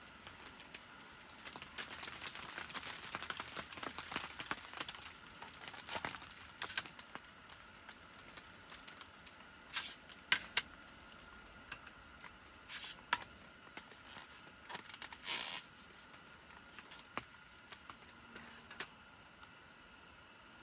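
Crinkling and rustling handling noise, dense for a few seconds at the start, then a handful of separate sharp clicks.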